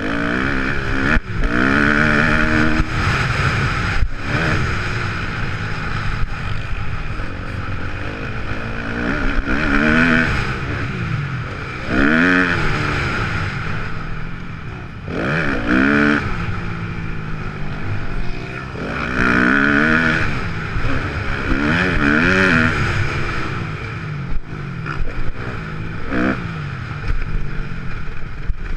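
Kawasaki KX250F motocross bike's single-cylinder four-stroke engine revving hard and backing off over and over, its pitch climbing and dropping every few seconds.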